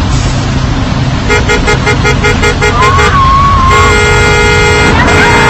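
Street traffic with vehicle horns: a rapid run of short horn beeps about a second in, then a long steady horn blast from about four seconds in, briefly broken near five seconds, over a constant traffic rumble. A short wavering tone sounds between the beeps and the long blast.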